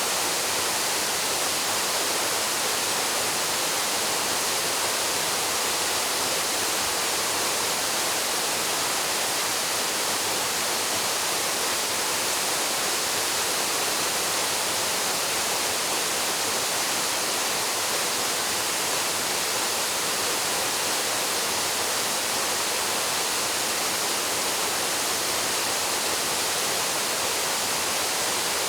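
Waterfall pouring into its plunge pool: a steady, unbroken rushing hiss of falling water.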